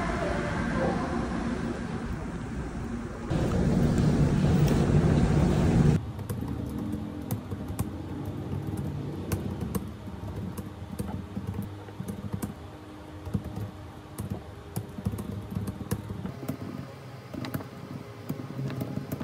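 Metro train noise at a station, a loud steady din that grows louder about three seconds in, cut off abruptly at about six seconds. It is followed by quick typing on a laptop keyboard, a run of light key clicks.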